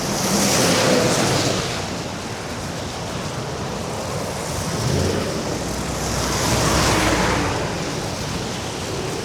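Wind rushing over the microphone of an electric scooter ridden at about 15 mph through snow, with a steady hiss. It swells louder twice, about a second in and again around seven seconds in.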